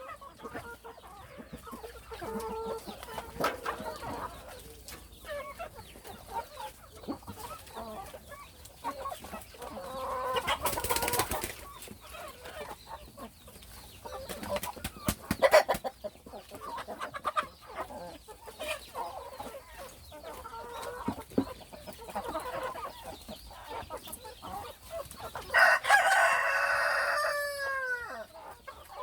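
A flock of chickens clucking throughout, with a rooster crowing loudly near the end.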